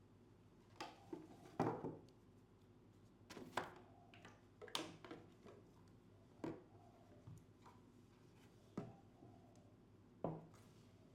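Irregular light knocks and clicks of objects being handled in a small room, about ten over the span, unevenly spaced, with a faint steady background between them.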